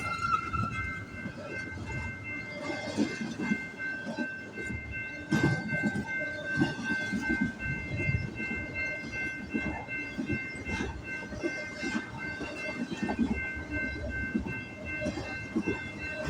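BNSF double-stack container train's cars rolling past, wheels clattering and thumping irregularly over the rails, with a steady high-pitched squeal running over it.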